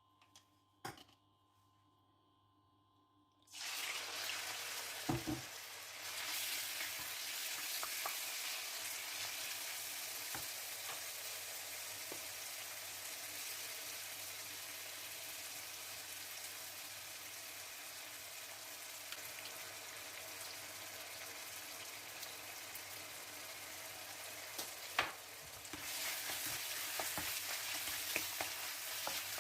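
Chicken pieces sizzling as they fry in a hot pan, the sizzle starting suddenly about three and a half seconds in. A few sharp knocks of a utensil against the pan come over it.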